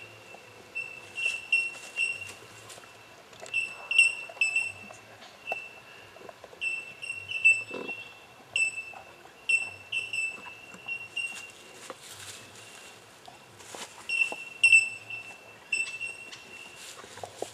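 A bird calling over and over with short, high-pitched piping notes in quick runs of two to four, each run about a second apart, with short gaps.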